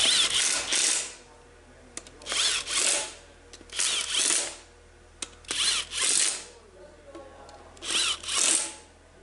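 A hand or power tool working a part in short, paired strokes, about one pair every two seconds, five times.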